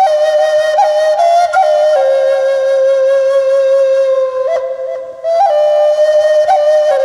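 Black Natura Native American flute playing a slow line: a long held low note decorated with quick upward grace-note flicks, a short break about five seconds in, then the note sounding again.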